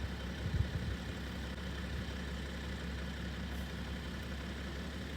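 Car engine running with a steady low rumble, with a few low knocks in the first second.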